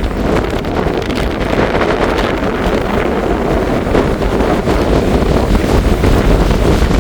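Strong wind buffeting the microphone, a loud, steady rushing noise with heavy low rumble, likely with rough sea beneath it.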